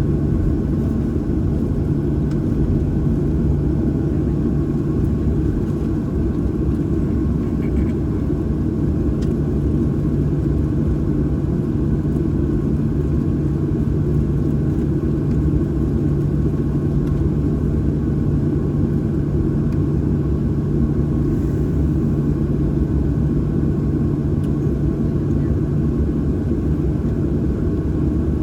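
Steady cabin rumble of a Boeing 737-800 with its CFM56-7B engines running at idle, a low steady hum running through it.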